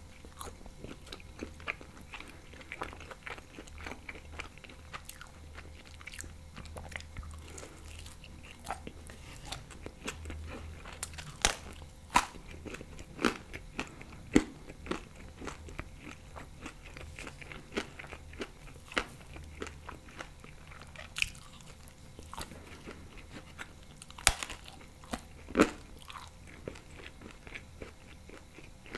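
Close-miked chewing of thin-crust bechamel pizza: a steady run of small mouth clicks and crust crunches, with a few sharper, louder crunches around the middle and again near the end.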